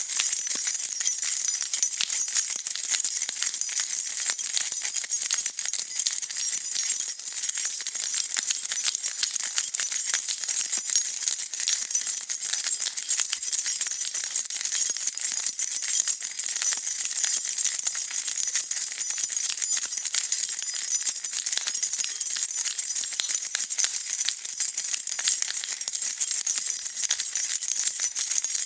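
A bunch of metal keys jingling continuously, shaken so they clink against each other in a dense, steady stream of high metallic chinks.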